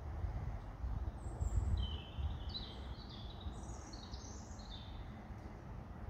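A small songbird singing a run of clear high notes, in short steps up and down, from about a second in until about five seconds in, over a steady low outdoor rumble.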